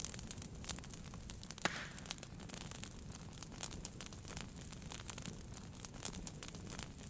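Wood fire burning in a fireplace, crackling with irregular small snaps over a low steady rumble, and one louder pop with a short hiss about a second and a half in.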